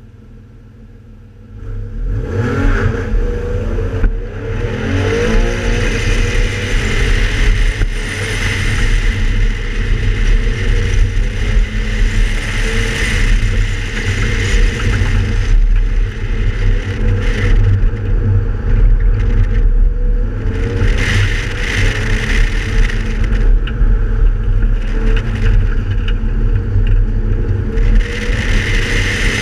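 Porsche 991 Carrera S's flat-six engine launching hard about a second and a half in, then accelerating and easing off through an autocross course, with wind buffeting the side-mounted microphone.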